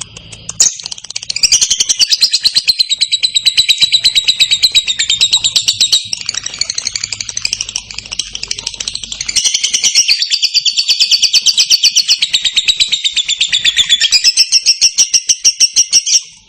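Lovebird singing a long ngekek: a fast, unbroken run of shrill chattering chirps. It starts under a second in, eases for a few seconds in the middle, picks up again, and cuts off suddenly near the end.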